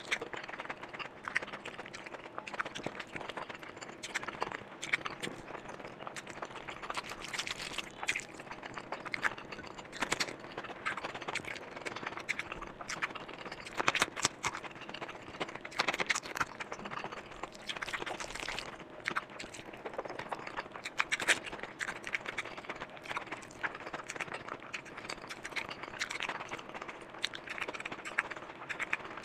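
Close-miked eating sounds of a person chewing curry eaten by hand: wet chewing and lip smacking, with frequent irregular sharp mouth clicks.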